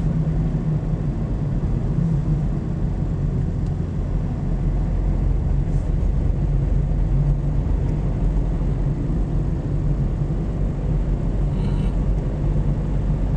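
Steady engine and tyre rumble of a car driving at about 50 km/h, heard from inside the cabin.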